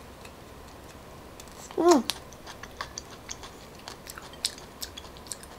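Close-miked chewing of a palm-weevil larva: small, irregular wet clicks and crunches from the grub's chewy, crunchy skin, with one short hum of the voice about two seconds in.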